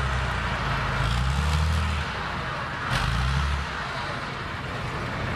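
A motor vehicle's engine running with a deep rumble that swells twice and eases off in between.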